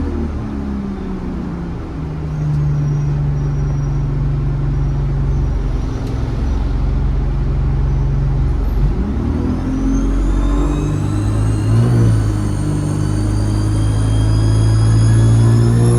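ADL Enviro 200 bus's diesel engine running, heard on board: a steady low drone for the first half, then about nine seconds in the engine revs up and a high turbocharger whistle rises, climbing steadily in pitch as the bus accelerates.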